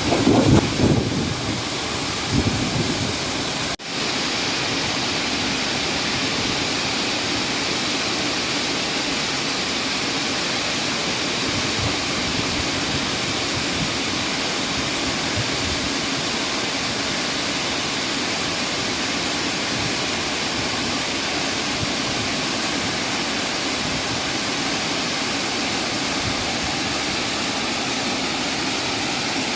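The steady rush of a tall waterfall, Renang Waterfalls, with falling water crashing down, broken only by a brief dropout about four seconds in. Low buffeting in the first second or two.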